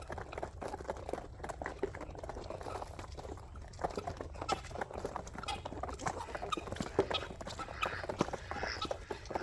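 A flock of chickens, ducks and guinea fowl feeding: a busy patter of many short taps and pecks mixed with soft bird calls.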